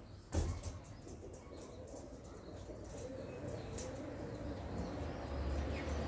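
Birds chirping faintly in the background, with a single soft thump shortly after the start.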